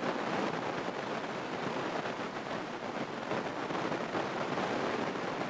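Steady cabin noise of a light single-engine piston airplane, its engine running at low power on the ground.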